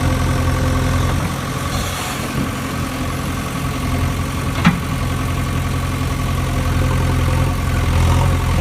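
An engine idling steadily, with one sharp click about halfway through.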